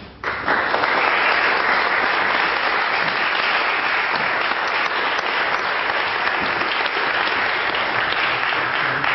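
A church congregation applauding, a crowd clapping steadily.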